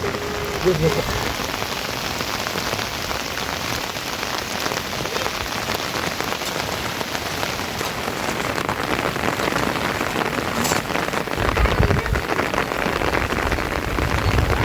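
Steady rain falling, heard as a dense, even hiss of many small drop hits. A low rumble comes in briefly about three-quarters of the way through.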